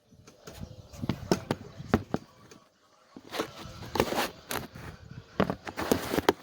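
Hand tools and metal parts being worked in a car's engine bay: irregular clicks, knocks and scrapes with short gaps between them.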